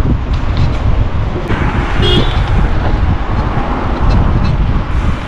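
Wind rumbling steadily on the microphone of a moving bicycle, with a short horn toot about two seconds in.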